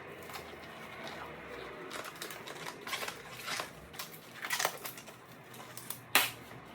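Scattered light clicks and taps at an irregular pace, with one sharp knock about six seconds in.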